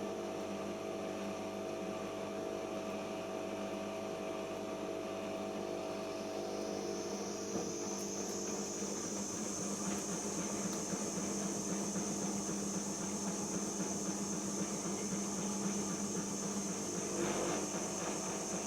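Siemens iQ front-loading washing machine spinning after its prewash: the motor's high whine rises about six seconds in as the drum speeds up, then holds steady over a low hum.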